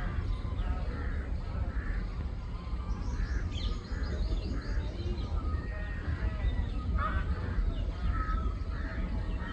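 A roosting colony of Indian flying foxes calling, with many overlapping harsh, squabbling squawks repeating throughout, over a steady low rumble.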